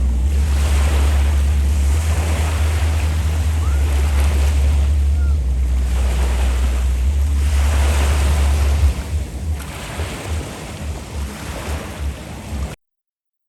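Sea waves washing onto a beach, swelling and fading every couple of seconds, with low wind rumble on the microphone. The sound cuts off suddenly near the end.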